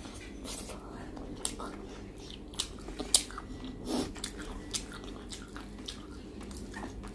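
A person chewing soft food (rice and chicken curry) close to the microphone, with scattered short, wet mouth clicks and smacks.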